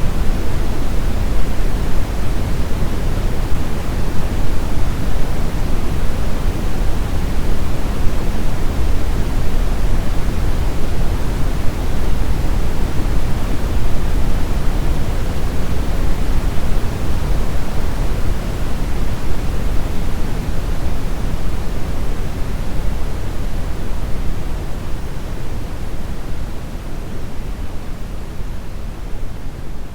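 Synthetic brown noise: a steady, even hiss weighted toward the low end, with no tones or breaks. It begins to fade down gradually over roughly the last eight seconds.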